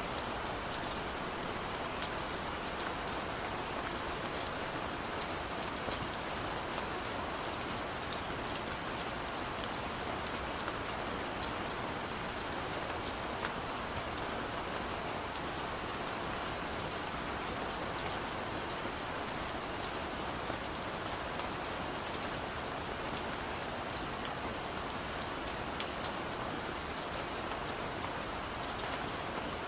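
Gentle steady rain falling, an even hiss sprinkled with many small sharp drop ticks.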